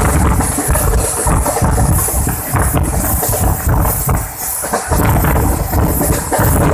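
Train running at speed: a loud, steady rumble with wind buffeting the microphone, easing briefly about four seconds in.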